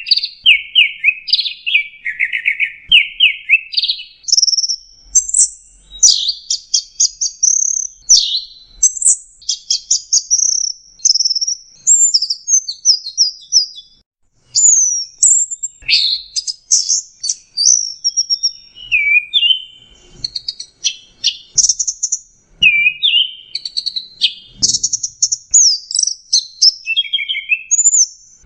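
Long-tailed shrike (cendet) singing a long, varied song of rapid trills, fast note series and slurred whistled notes, with a brief pause about halfway.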